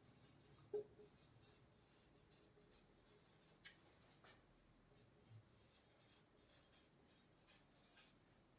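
Faint scratching of handwriting strokes, coming and going, with a soft tap about three-quarters of a second in.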